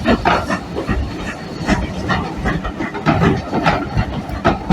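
Steam locomotive on the move: a quick, irregular run of knocks and chuffs over a steady hiss.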